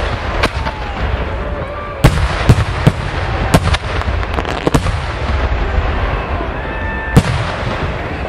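Large aerial firework shells bursting overhead: a string of about seven sharp bangs at uneven intervals, the loudest about seven seconds in, over a continuous low rumble and hiss from the display.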